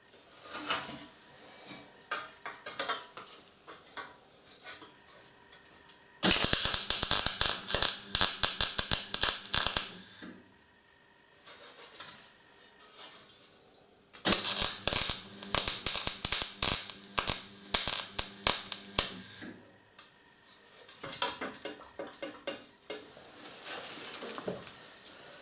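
Rapid metallic clicking and clattering in two bursts of about four and five seconds, with fainter clicks between, as glass is fastened onto a homemade steel stove door.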